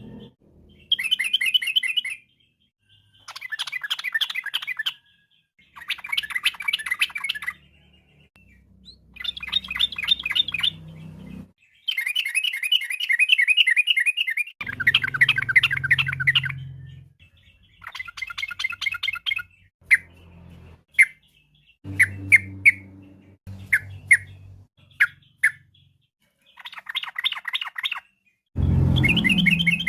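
Yellow-vented bulbul (trucukan) singing: repeated bouts of rapid, bubbly chattering phrases a second or two long, separated by short pauses, with a few short single sharp notes about two-thirds of the way through.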